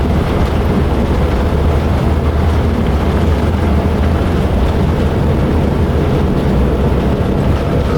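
Steady engine and air noise heard inside the cabin of a Boeing 787-9 in flight, with a faint steady tone running through it.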